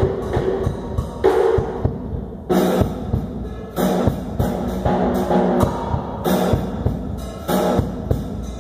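Drum kit playing a steady, fast beat, with cymbal crashes about every second and a quarter, over a pitched musical accompaniment.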